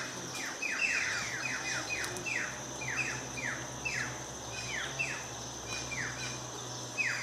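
Birds calling: many short calls, each sliding down in pitch, coming several a second and overlapping as from several birds, over a steady high-pitched whine.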